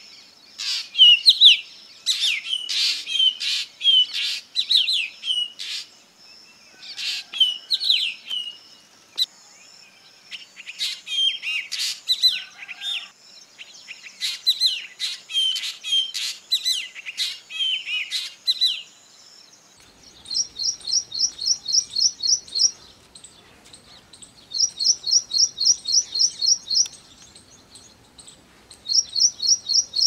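Black drongo calling: a long string of sharp, varied phrases with gliding notes. About two-thirds of the way through it gives way to an ashy prinia, whose quick runs of evenly repeated high notes come three times, each about two seconds long.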